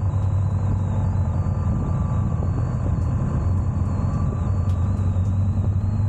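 Motorcycle engine running steadily, a constant low drone with rushing noise over it.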